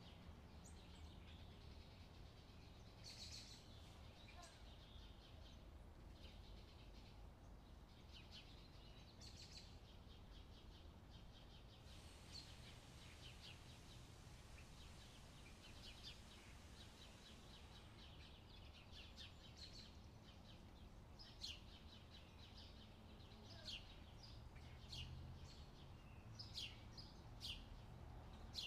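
Near silence: a faint low hum, with small birds chirping now and then, more often in the last third.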